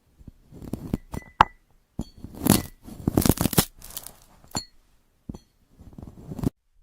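Crisp crackling crunches of a glass-like 'crystal' fruit being cut, with a few short glassy clinks. They come in bursts: a scatter of cracks in the first second and a half, a dense crackling run from about two to nearly five seconds in, then two short bursts near the end.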